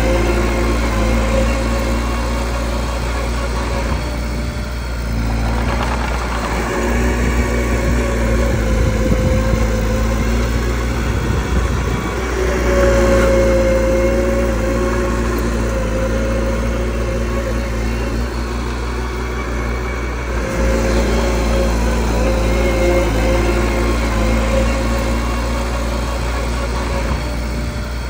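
Small bulldozer's diesel engine running steadily. It rises and eases a little with the load as the blade pushes, loudest about halfway through.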